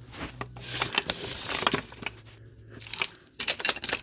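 Old Harbor Freight floor jack being moved into place under the van: gritty scraping on the concrete floor, then a string of sharp metal clicks and clinks near the end.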